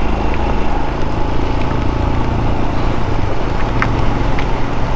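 Royal Enfield Scram 411's single-cylinder engine running at a steady cruise, under a constant rush of wind and road noise, with a few scattered sharp ticks.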